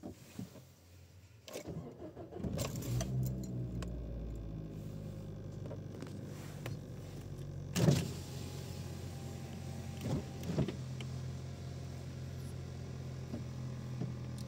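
Nissan Note's 1.6 HR16DE four-cylinder petrol engine cold-starting: the starter cranks briefly about a second and a half in, the engine catches and runs at a raised cold idle that slowly settles lower. A sharp knock about halfway through, and two smaller ones a couple of seconds later.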